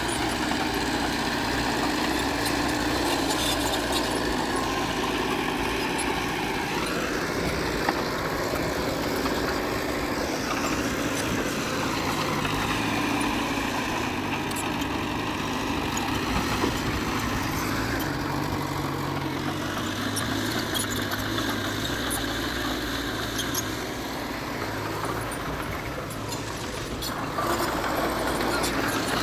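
Diesel engine of heavy earthmoving machinery running continuously under work, its pitch rising and falling several times as the revs change.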